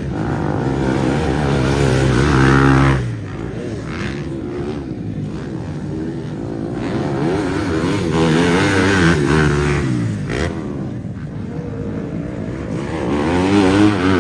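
Motocross bike engine revving hard under acceleration, its pitch climbing and then cutting off sharply about three seconds in. It builds and fades again in the middle, then climbs once more near the end.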